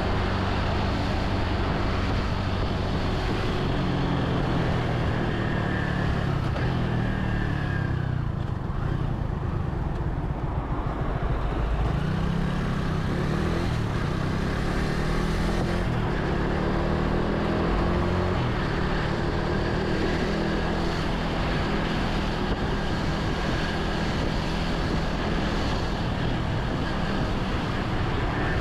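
Vehicle engine and road noise heard from a moving vehicle in traffic, running steadily, with the engine pitch rising and falling a few times about halfway through.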